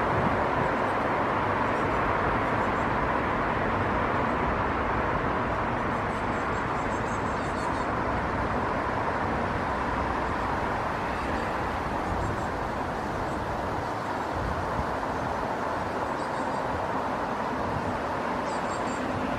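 Steady rushing noise of distant road traffic, with a few faint high chirps about halfway through and again near the end.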